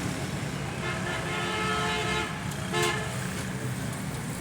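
A vehicle horn sounds once, a steady tone lasting about a second and a half, over the continuous low running of an engine. A short click follows near the end.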